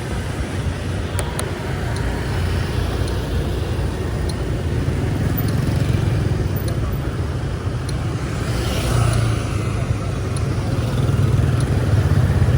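Street traffic: motorbikes and cars running past in a steady low rumble that swells a little twice near the end.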